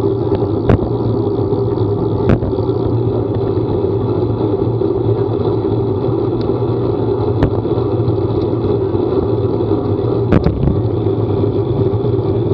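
A vehicle running with a steady engine drone and road noise. Sharp clicks or knocks come through four times.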